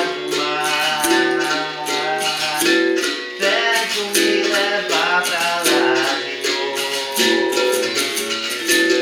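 Capoeira music: a berimbau's struck string playing a steady, repeating rhythm, with a voice singing a capoeira song over it.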